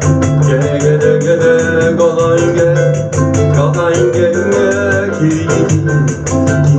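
Bossa nova band playing: acoustic guitar, piano and bass over percussion keeping a quick, steady high ticking pulse.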